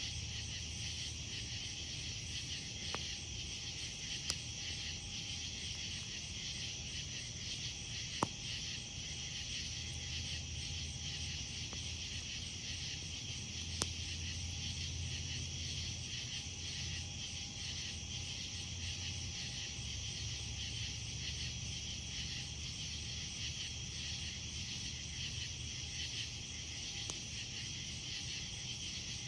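A steady chorus of night insects such as crickets, calling on and on at a high pitch, over a campfire with a few sharp pops of burning wood, the loudest about eight seconds in.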